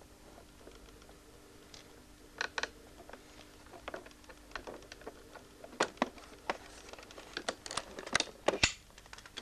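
Irregular light clicks and knocks, a few at first, then denser and louder in the second half, over a faint steady hum.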